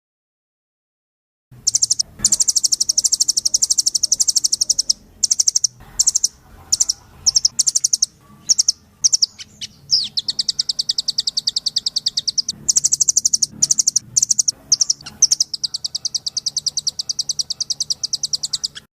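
Rambatan (nuthatch) singing in long, very rapid trills of sharp high notes, broken by short pauses, starting about a second and a half in.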